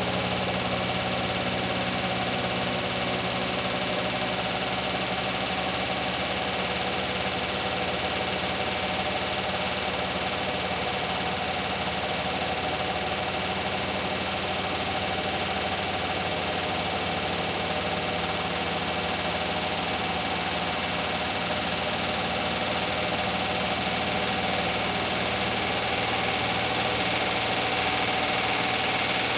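Beko WTK104121W front-loading washing machine in its spin cycle, motor and drum running with a steady whirring hum and hiss, growing slightly louder near the end.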